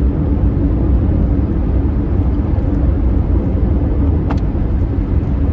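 A car driving: steady low engine and road rumble, with one short click about four seconds in.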